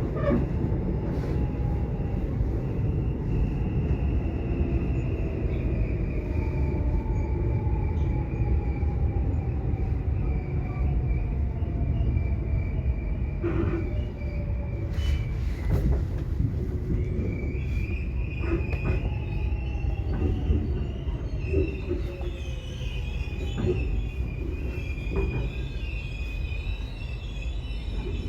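Subway train running: a steady low rumble of wheels on rail with a thin, high wheel squeal, fainter tones that slowly fall in pitch, and scattered short clicks.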